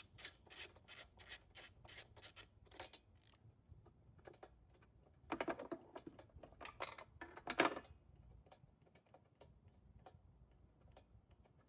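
Ratchet wrench clicking steadily, about three clicks a second, while a spark plug is loosened from a push mower's engine. About halfway through come a few louder scrapes and clatters of tool handling.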